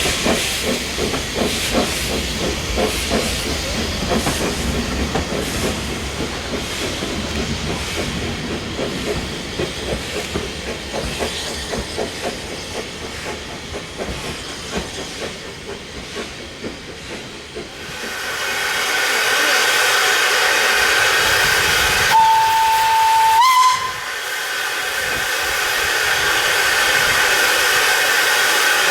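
Steam locomotive's exhaust beats fading away over the first seventeen seconds, followed by a loud steady hiss of escaping steam. Around twenty-two seconds in a steam whistle gives one short blast of about a second and a half, rising in pitch just before it stops.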